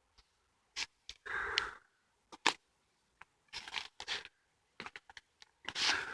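Footsteps crunching irregularly on a woodland path, each step a short rustling crunch with dead silence between them.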